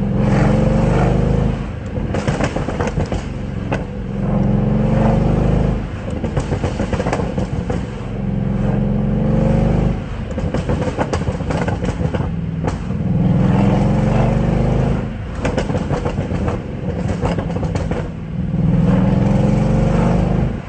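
Mercedes-AMG car engine and exhaust being revved repeatedly, about six revs each held for a second or two and then dropping back. Sharp cracks come through the exhaust between the revs.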